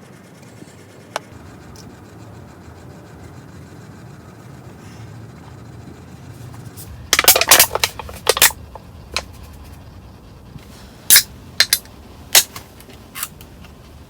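A series of sharp clicks and clatters of small hard objects being handled: a quick rattling cluster about halfway through, then single knocks roughly once a second.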